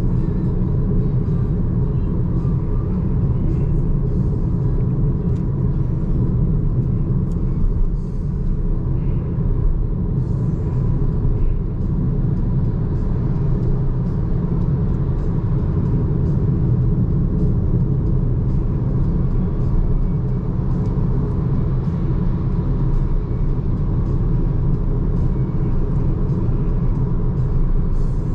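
Steady tyre and road rumble from a BYD Seagull electric hatchback cruising on an expressway, heard from inside the cabin with no engine note. Faint small knocks come through now and then.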